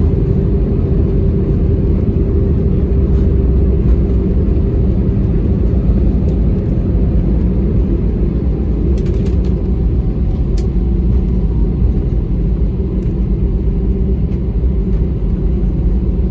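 Airbus A320-200 cabin noise: a loud, steady low rumble of engines and airflow, with a faint steady hum and a few light rattling clicks around the middle.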